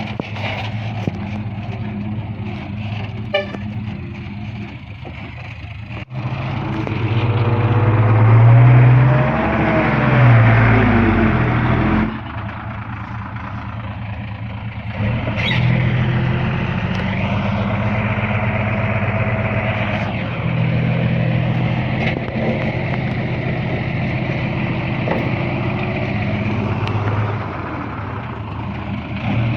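Diesel engines of heavy earthmoving machinery (a bulldozer and dump trucks) running steadily. One engine revs up and back down about seven to twelve seconds in.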